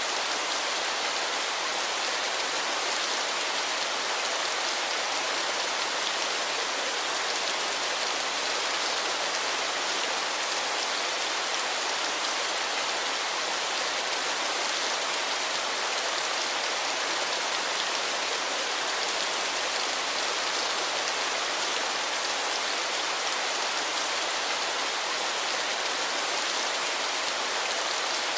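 Waterfall: a steady, unbroken hiss of falling water, bright and even with little low rumble.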